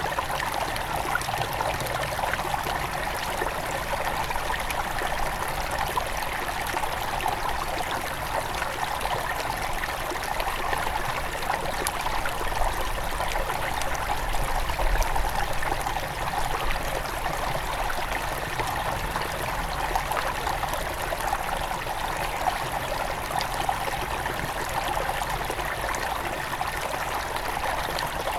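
Small mountain river near its source, flowing and trickling over stones in a steady rush of water.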